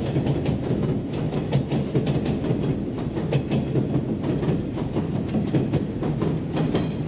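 Electric commuter train running past, its wheels clacking over rail joints in a steady, loud low rumble.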